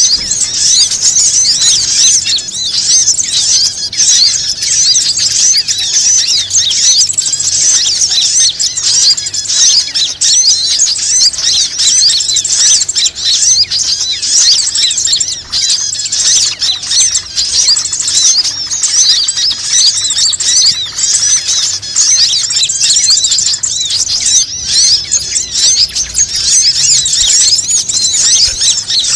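Dense, unbroken chorus of many small birds chirping and twittering rapidly at a high pitch. It is a bird-lure (pikat) call played to draw birds in.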